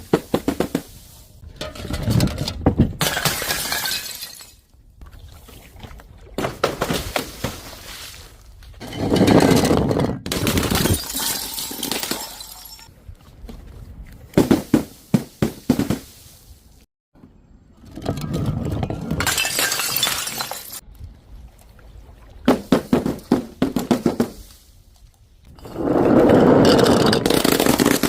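Glass bottles shattering again and again: about six crashes, each a cluster of sharp impacts followed by a second or two of breaking, scattering glass.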